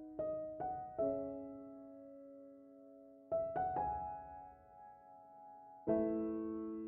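Background music: slow, soft solo piano, a few notes or chords struck at a time and left to ring out, with quiet stretches between the groups of notes.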